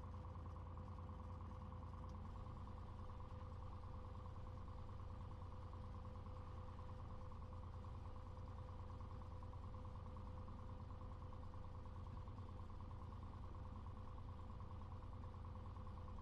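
Cessna 182's piston aircraft engine and propeller running steadily at low power, heard from inside the cabin as an even drone.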